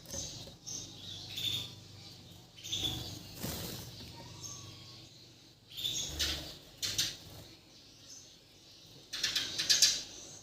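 Bornean white-rumped shama (murai batu) singing in scattered short bursts of varied, high chirping phrases, the loudest burst near the end.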